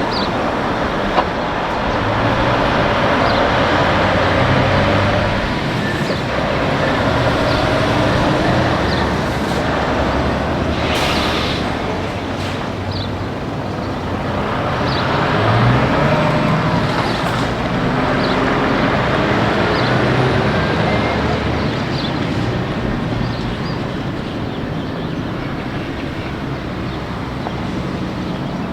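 Heavy trucks and other traffic running past on a highway, with diesel engine notes rising and falling as vehicles come and go, and a steady tyre and road noise underneath.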